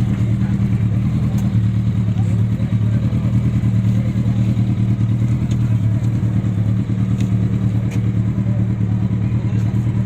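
A large vehicle engine idling steadily: a low, even drone with a fast, regular pulse and no revving.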